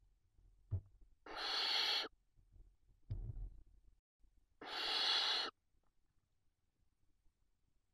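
Barn owl chicks giving their hissing, snore-like begging calls: two breathy hisses under a second long, about three seconds apart. A soft knock and some scuffling come between them.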